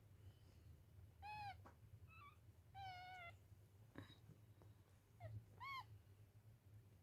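Newborn kittens mewing faintly: a few short, high-pitched mews, the longest about three seconds in, over a faint low hum.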